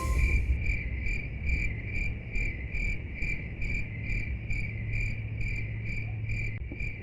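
Cricket chirping in a steady, even rhythm of a bit more than two chirps a second, each chirp on the same high pitch, over a faint low hum.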